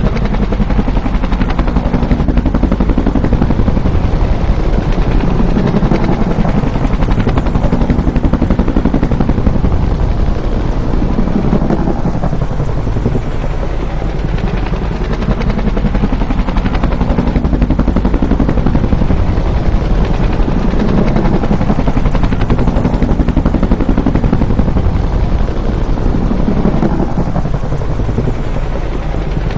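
Bell UH-1 "Huey" helicopter, its two-blade main rotor beating rapidly and steadily. The low part of the sound swells and eases every few seconds.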